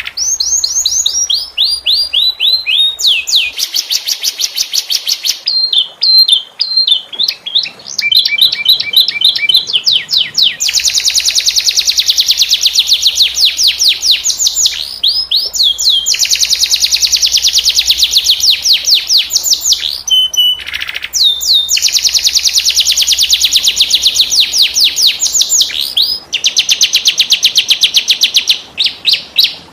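Domestic canary singing loud, continuous song made of long rolling trills: very fast repeated high notes strung into phrases, with a few short breaks between them.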